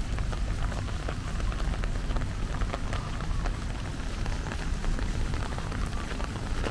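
Steady rain falling, with many individual drops ticking and a steady low rumble underneath.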